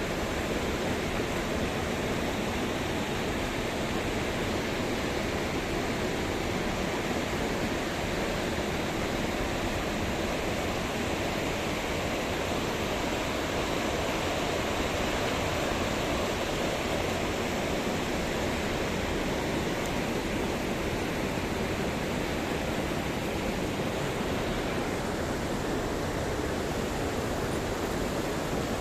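The Krishna River's water rushing steadily, an unbroken, even sound of fast-flowing water.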